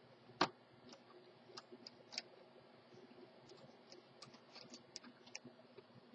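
Scattered light clicks and ticks of the last screw being worked out of the plastic bottom cover of a Hoover Elite Rewind upright vacuum, with one sharper click about half a second in.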